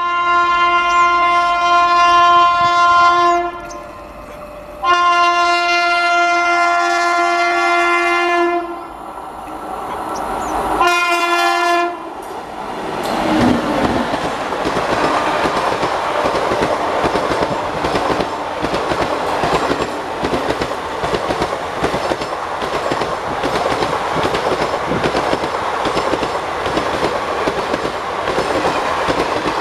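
Indian Railways WAP-7 electric locomotive sounding its horn three times, two long blasts of about four seconds and then a short one, as it approaches. After that the train passes close by at speed with a steady rush and a fast clickety-clack of wheels over the rail joints.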